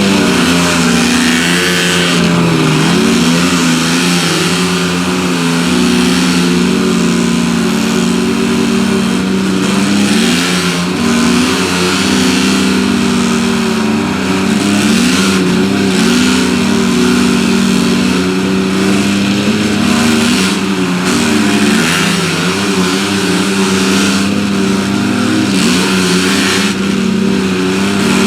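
Pickup truck engines held at high revs under load, pulling against each other in a truck tug of war, the pitch wavering up and down without letting off.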